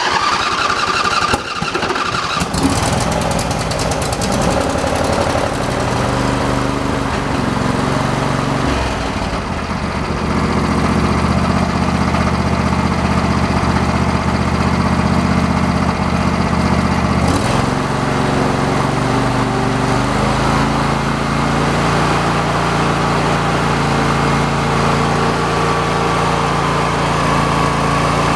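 A John Deere 135 lawn tractor's 22 hp Briggs & Stratton V-twin engine cranking on the starter and catching after about two seconds, then running steadily; its note changes once about seventeen seconds in. It runs smoothly, a good running engine.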